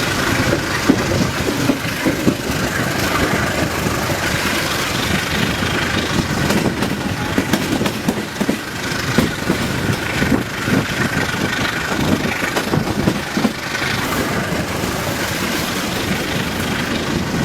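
Economy-class passenger train running, heard from inside the carriage: loud, steady rolling noise with constant rattling and knocks of the wheels and coach.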